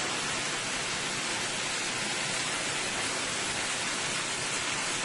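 Steady sizzle of chicken frying in oil in an open pot, an even hiss with no distinct knocks as cut potatoes are tipped in.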